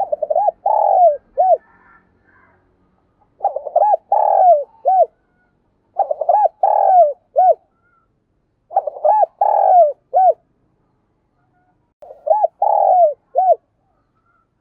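Spotted dove (Vietnamese cu gáy decoy bird) cooing in a vigorous "thổ pha thúc" voice. It gives five coo phrases about three seconds apart, each a quick run of short notes, a longer coo and a final short note.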